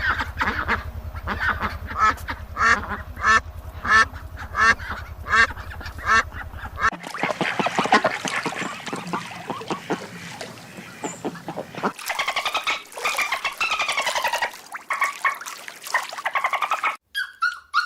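Ducks and geese calling over and over, in a few clips cut one after another. For the first seven seconds the calls come about every two-thirds of a second over a steady low hum; just before the end it cuts to a different, gliding call.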